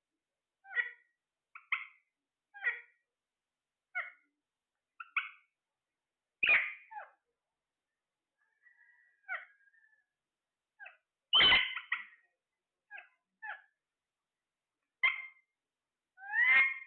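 Parrot calling in short, sharp chirps and squawks about once a second. Two calls, one about a third of the way in and one just past halfway, are louder and longer, and a brief steady whistle sounds between them.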